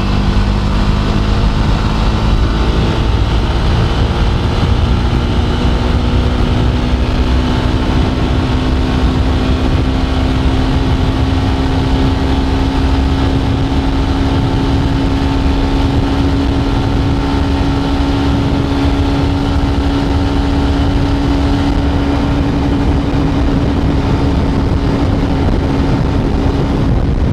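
Jawa 42's 293 cc single-cylinder engine pulling hard at high speed, its note climbing slowly and then levelling off as the bike tops out at about 125 km/h, under heavy wind rumble on the microphone.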